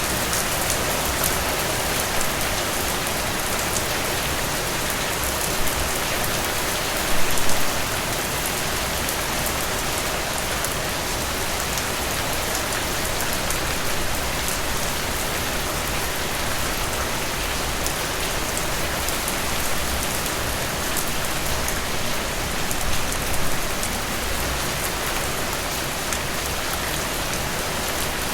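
Steady rain falling, an even hiss with a few brief louder spatters about seven seconds in and again near twenty-three seconds.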